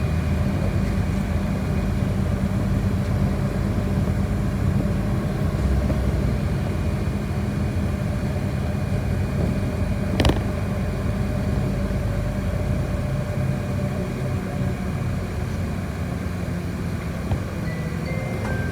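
Inside a city bus on the move: the engine and road noise run steadily as a low rumble, with one sharp click about ten seconds in.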